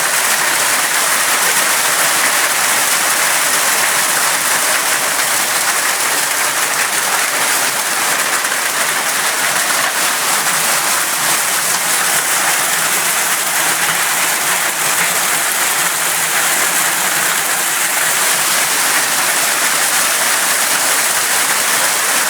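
Hailstones and heavy rain falling hard, a loud, dense, unbroken clatter of countless impacts.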